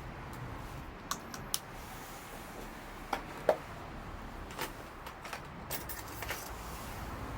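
Wood fire crackling: a steady low hiss with sharp, irregular pops and snaps, the loudest about halfway through.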